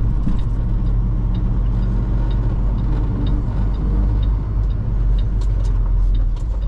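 Semi truck's diesel engine running steadily with a deep, even hum, and faint regular ticking over it.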